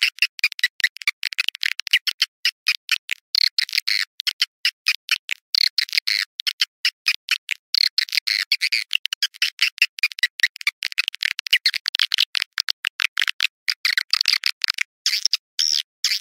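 Recorded swiftlet calls: a fast, dense stream of short high chirps and twitters with brief breaks, the kind of lure track played to draw swiftlets into a nesting house.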